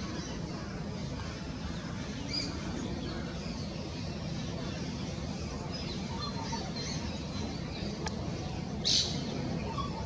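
Rufous treepie calling: faint short high chirps scattered throughout, then a short, loud, hissy high call just before the end, over a steady low background rumble.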